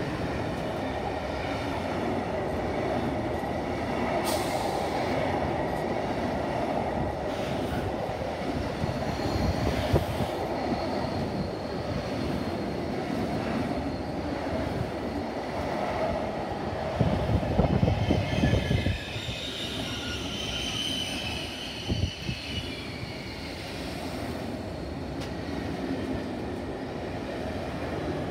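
Intermodal freight train's pocket wagons loaded with lorry trailers rolling past: a steady rumble of steel wheels on rail, with a thin high wheel squeal that grows stronger past the middle and several louder knocks from the wagons.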